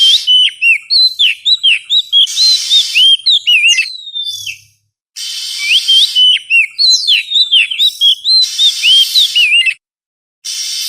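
Oriental magpie-robin (kacer) song played as a lure recording: a fast run of loud, varied, slurred whistled notes in three phrases, broken by two brief silences, over a background hiss.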